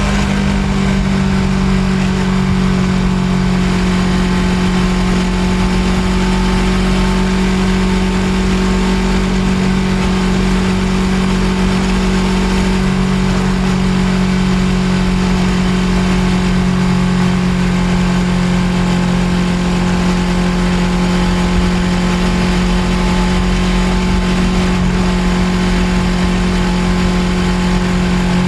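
Suzuki GSX250R's parallel-twin engine running at a steady speed while the motorcycle cruises, its tone holding almost constant pitch throughout.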